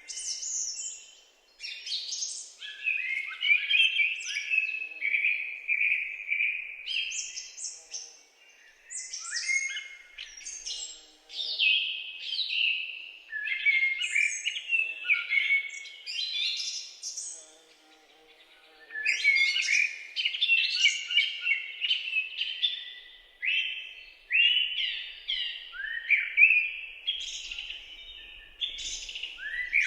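Songbirds singing: a dense run of quick chirps, trills and warbled notes in long phrases, broken by brief pauses about a second and a half in, around eight seconds and again around seventeen to nineteen seconds.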